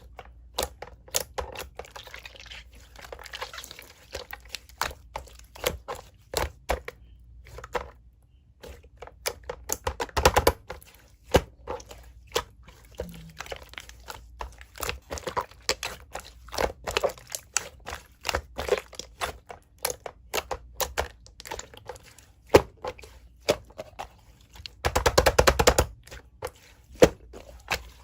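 Slime being played with by hand, making a continual run of sharp clicks and pops, with a denser stretch of crackling near the end.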